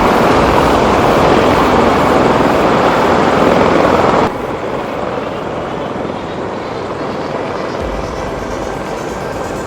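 Military rotorcraft flying: a loud, dense rotor and turbine noise that cuts suddenly to a quieter, steady rotor noise about four seconds in.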